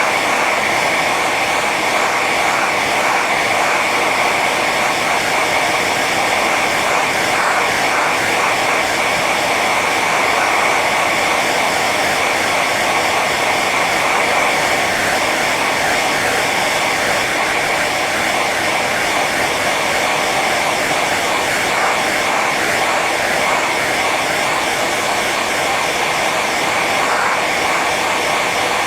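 Hair dryer running continuously on its high setting: a steady rush of blown air with a whine from the fan motor, unchanging throughout.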